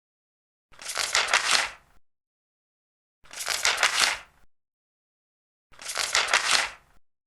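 Large paper pages being turned, three turns about two and a half seconds apart, each a crisp rustle lasting just over a second.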